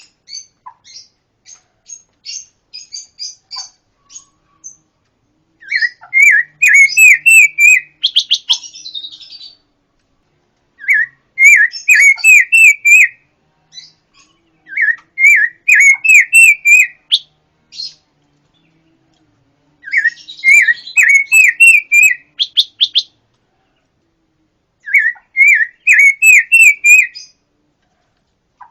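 A caged songbird kept as a 'pancawarna' singing loudly in repeated bouts: short runs of quick, rising-and-falling whistled notes about 2 seconds long, coming every four to five seconds, with a fast trill after two of them. The first few seconds hold only soft, high chirps.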